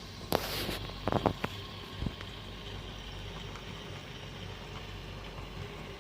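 HO-scale model Shay locomotive and freight cars running on layout track, with a steady low hum. A brief hiss about half a second in, then a quick run of clicks about a second in and one more click near two seconds.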